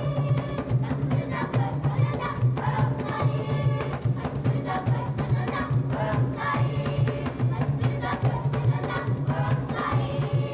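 Children's choir singing an African song in chorus over a steady drum rhythm.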